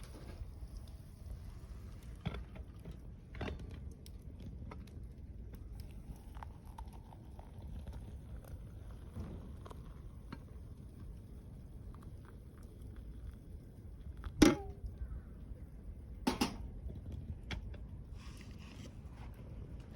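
Wood fire crackling in a fire pit: scattered small pops and snaps over a low rumble, with two louder sharp snaps about two seconds apart in the second half.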